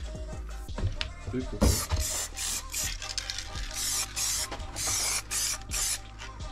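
Aerosol spray can of black tail-light tint paint hissing in short repeated bursts, one pass after another. A single knock about two seconds in.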